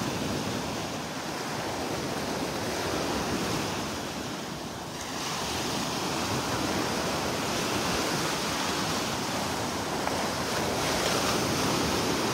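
Gulf of Mexico surf washing ashore, with wind buffeting the microphone; the rushing noise eases a little then swells again about five seconds in.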